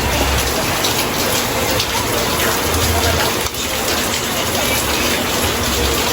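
Steady rain falling, a dense even hiss, with a couple of low thuds near the start and about three seconds in.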